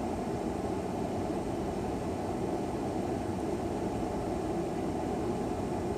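Steady road and engine noise heard inside a moving car's cabin, an even low rumble with no changes.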